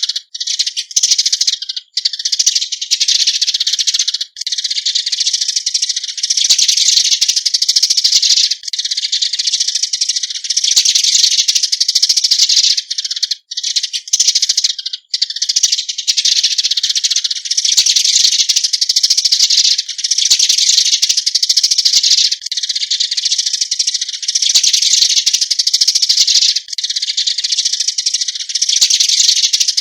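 Eurasian tree sparrows chirping densely, a continuous chatter of overlapping high calls with a few brief breaks: the flock-gathering call.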